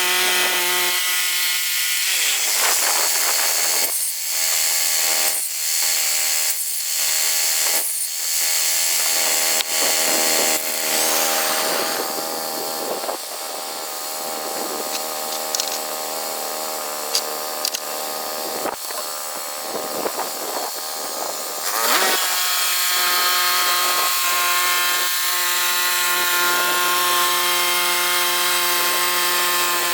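Chainsaw running at high revs, with the engine note dropping and wavering for long stretches as the chain bites into a log, then settling back to a steady high whine near the end.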